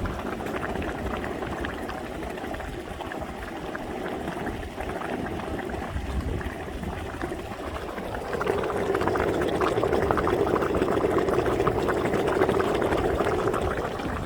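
Boiling mud spring at a geothermal field, bubbling and gurgling steadily, growing louder about eight seconds in.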